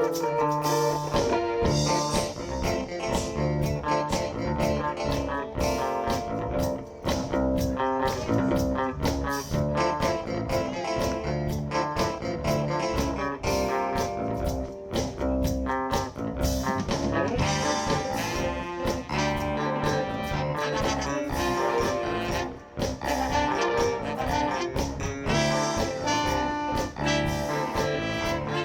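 Live soul band playing an instrumental passage with guitar, bass and drums, and horns, at a steady beat.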